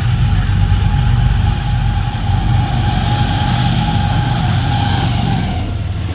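Diesel locomotive running at speed as it hauls a passenger train past: a heavy low rumble with a steady high tone held over it. The rushing rail and wheel noise of the passing coaches grows from about halfway.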